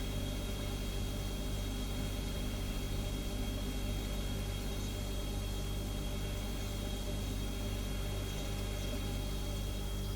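Refrigerator humming steadily: a deep, even hum with a thin high whine above it and a soft hiss.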